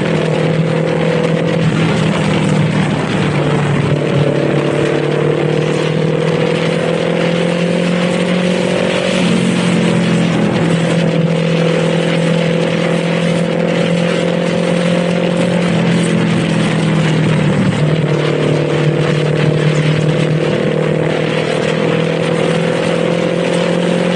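Kawasaki Z400's parallel-twin engine running under way at moderate revs, its pitch creeping up slowly and stepping down a few times, with steady wind and road noise.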